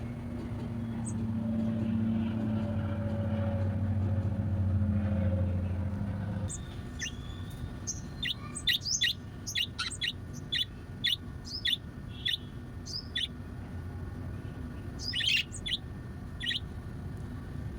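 A low motor hum swells and then cuts off suddenly about six seconds in. After it, a pet bird chirps in short, high, repeated notes, about one or two a second, with a quick cluster of chirps near the end.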